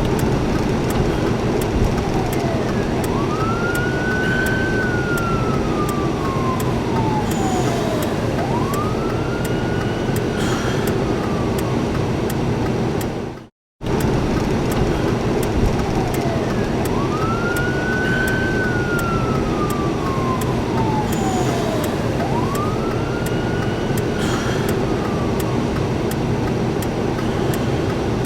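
Seagrave fire engine's siren wailing in long sweeps that rise and fall in pitch, over a steady heavy rumble of engine and traffic noise. The sound cuts out briefly about halfway through.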